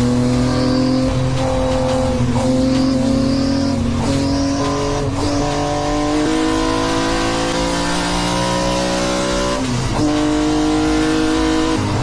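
Lamborghini Temerario GT3 race car's twin-turbo V8 running hard on track, its note climbing between several breaks as it changes gear.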